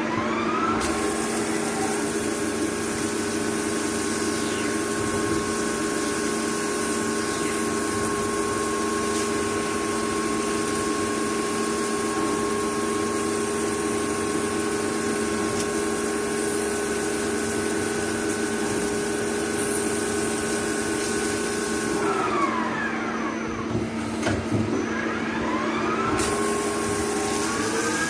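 CNC machine spindle whining at a steady speed over a constant hum and hiss. Its whine falls away as the spindle winds down about three-quarters of the way through, then rises again as it spins back up.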